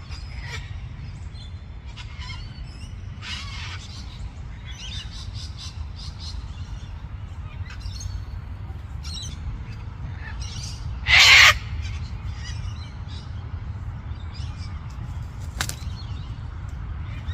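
Birds calling with short chirps and calls scattered throughout, and one loud, harsh squawk lasting about half a second, about eleven seconds in. A steady low rumble runs underneath.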